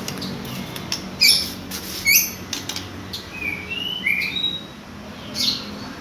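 White-rumped shama (murai batu) singing: a string of short, sharp chirps, the loudest about one and two seconds in, then a few short whistled notes and one more chirp near the end, over a steady background hiss.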